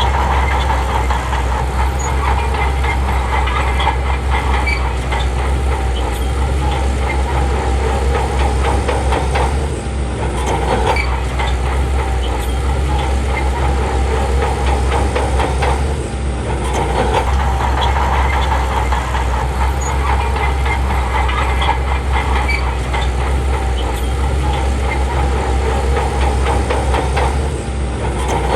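Heavy diesel engine of a crawler bulldozer running under load, with its steel tracks clattering steadily. The engine eases off briefly a few times.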